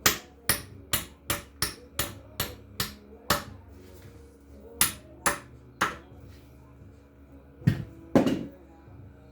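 Hammer blows ringing on metal, working loose the connecting-rod bolts of a seized Austin-Healey six-cylinder engine. A quick run of about ten strikes, three per second, is followed after a pause by three more, then two heavier, duller blows near the end.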